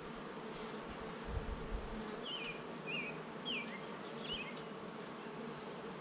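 Honey bees buzzing around an opened hive, a steady hum. A few short, high wavy chirps come in over it about halfway through.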